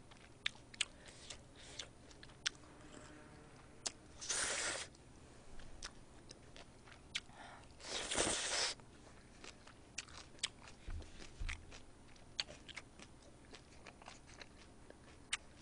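Mouth eating sounds close to a microphone: chewing a mouthful of kimchi pork stir-fry and rice, with many scattered sharp clicks from the mouth and chopsticks. Two short hissing rushes come about four and eight seconds in.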